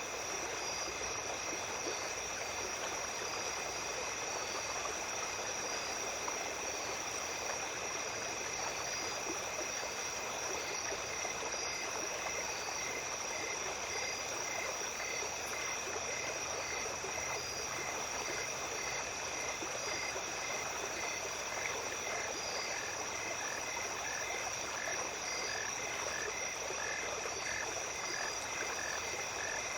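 Small stream flowing steadily, with a constant high insect trill over it. From about ten seconds in, a repeated pulsing animal call joins, roughly two pulses a second.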